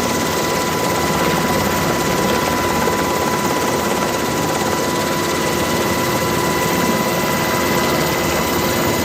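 Jet aircraft engines running steadily: a constant rushing noise with a steady high whine that holds one pitch throughout.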